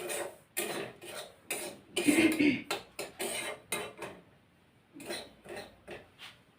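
A stirring utensil scraping and knocking against a kadai in quick, irregular strokes while semolina roasts in ghee, the loudest strokes about two seconds in.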